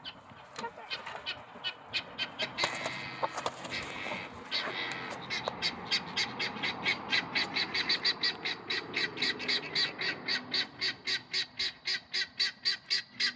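Guinea fowl alarm call: a harsh, rapid, evenly repeated chattering of about three calls a second that starts about five seconds in and grows louder. Before it come scattered clicks and rustling.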